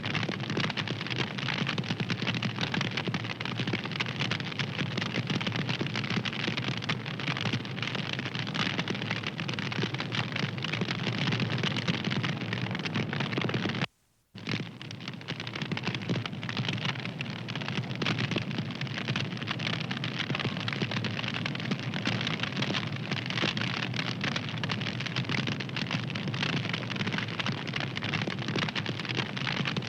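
Wood fire crackling steadily, a dense run of small pops and snaps. About halfway through the sound cuts out for a fraction of a second and then picks up again.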